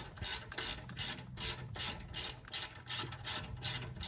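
Hand socket ratchet clicking in quick back-and-forth strokes, about three to four a second, as it loosens the 18 mm brake caliper bolts.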